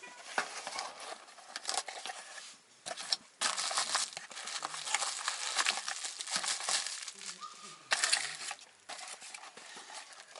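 Crinkling and rustling with many small clicks, coming in irregular spells with short pauses.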